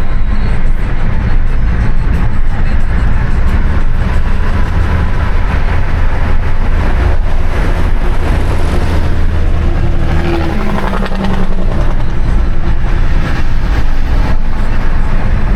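Steady engine and road noise of a car driving along, heard from inside the moving vehicle, with a brief pitched tone about ten seconds in.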